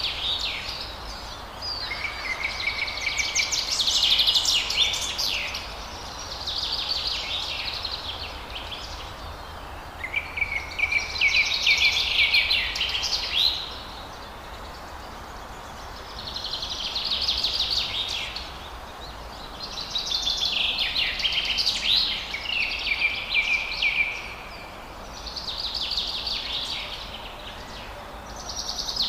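Forest songbird singing: long, rapid twittering song phrases of a few seconds each, some opening on a held note, repeated with short pauses over a steady low background hiss.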